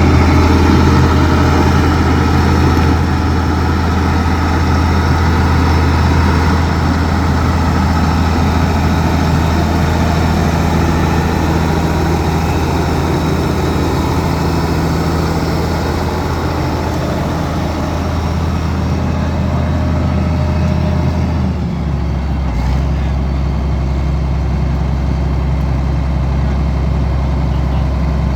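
Case 1370 Agri-King tractor's diesel engine running steadily. About 22 seconds in, its pitch steps down slightly and it settles at a lower speed.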